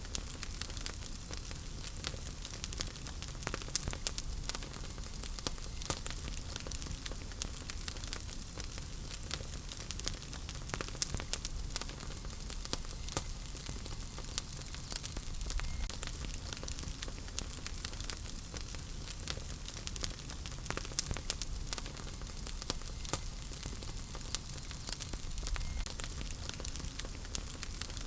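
Wood fire crackling in a fireplace: a steady hiss with many sharp, irregular pops and snaps and a low rumble underneath.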